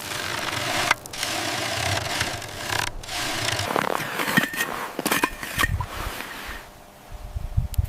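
Scraping and rubbing of a hand tool on a hard surface, broken by sudden cuts and a few sharp knocks, dying down about seven seconds in.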